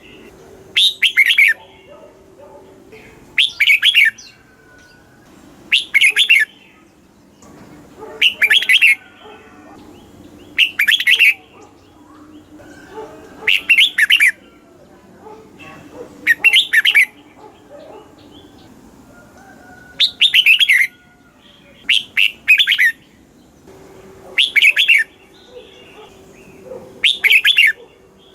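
Red-whiskered bulbul singing its short, bright, warbling song phrases, repeated about every two to three seconds. This is a stimulating song of the kind used to excite and train caged bulbuls.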